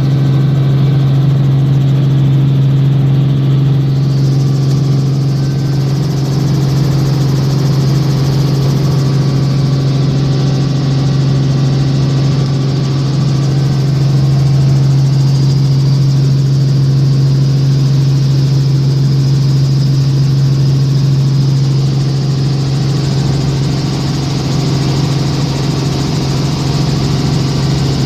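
Helicopter in flight: a steady engine and rotor drone with one strong low hum, running evenly without change.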